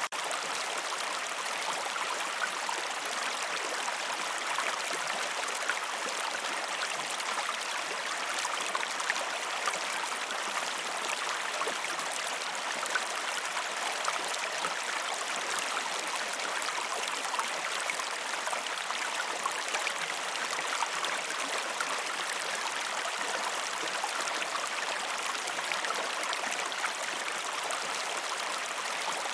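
River water flowing over a waterfall: a steady rush with fine splashing throughout.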